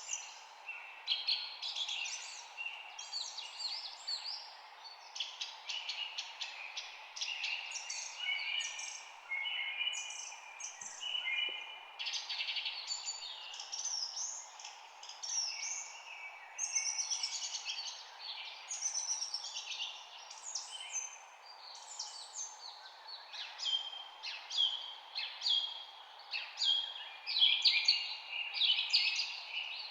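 Several songbirds chirping and singing at once, many quick overlapping chirps and trills, over a steady faint background hiss.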